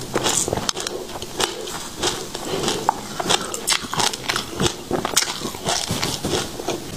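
Close-up chewing of a mouthful of passion fruit seeds: dense, irregular crunching and crackling clicks, several a second, as the hard seeds break between the teeth.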